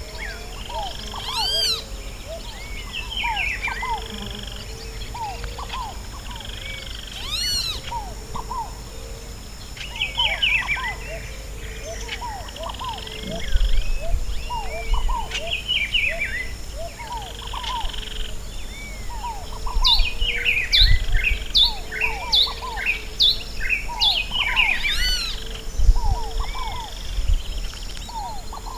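A chorus of several wild birds calling and singing at once: a steady run of short quick notes lower down, busier chirping higher up, and now and then a high arching whistle.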